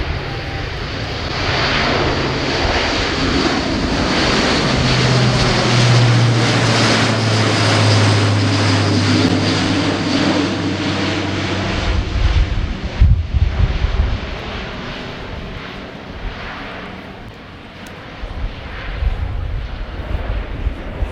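Airbus A400M's four turboprop engines and big eight-bladed propellers running at high power as the aircraft passes, with a steady low propeller drone and a high turbine whine. The sound swells to a peak and then fades. Gusty low rumbles fill the second half.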